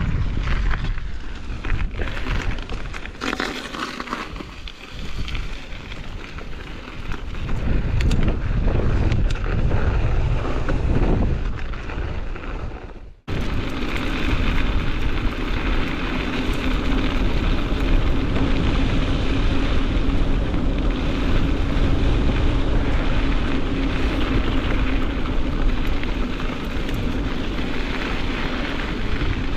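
Strong wind buffeting the action-camera microphone while cycling into a headwind, gusty and rumbling at first. After an abrupt break about 13 seconds in it turns into a steadier, denser rush with a low hum underneath.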